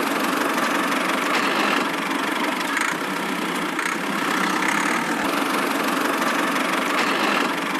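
Small motor of a miniature DIY model vehicle running steadily, a thin, even mechanical whirr without deep engine rumble.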